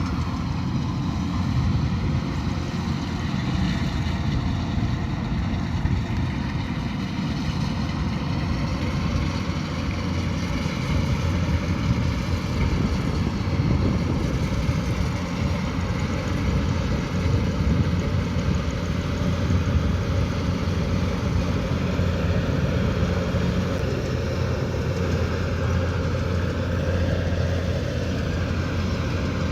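Kubota DC108X combine harvester's diesel engine and machinery running steadily with a constant low hum.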